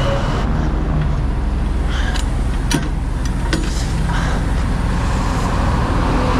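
Heavy truck's diesel engine idling with a steady low rumble under passing road traffic, with a few sharp clicks around the middle.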